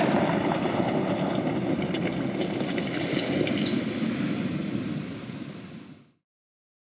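Vehicle noise, steady and dense, with scattered light clicks. It fades out about five seconds in and stops just after six seconds.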